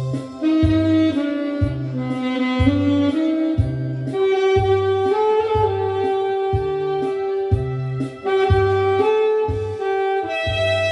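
Saxophone playing a slow, sustained melody over a backing track with a steady, even bass beat.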